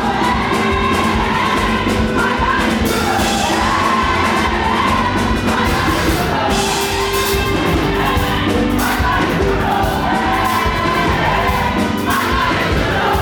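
Live up-tempo gospel praise music: a band with a steady drum beat under group singing, with the crowd whooping and shouting along.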